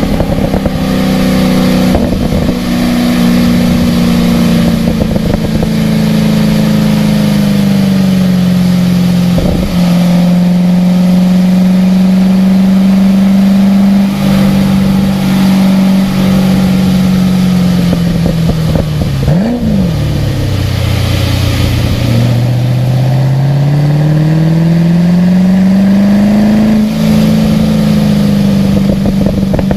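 Car engine running hard on a race-track lap: the revs hold and ease off, a quick sharp rev blip comes about two-thirds of the way through, and then the engine pulls steadily up through the revs before a gear change drops them near the end.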